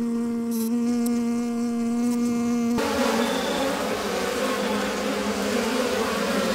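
Bees buzzing: a steady buzz at one pitch, which about three seconds in changes abruptly to a fuller, noisier buzz.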